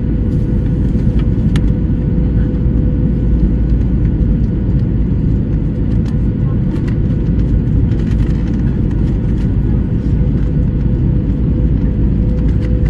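Airliner cabin noise during the descent to landing: a loud, steady rumble of engines and rushing air with a faint steady hum.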